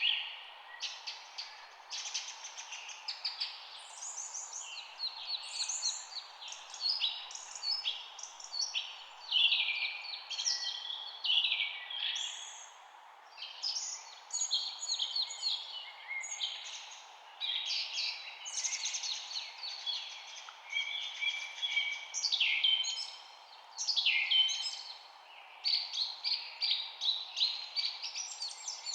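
Birds chirping and singing almost without pause: many short, quick chirps and trills overlap one another, over a faint steady background hiss.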